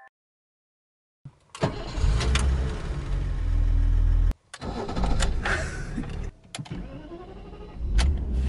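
Car engine and road rumble, heavy in the low end, with scattered clicks, in several short clips cut off abruptly one after another.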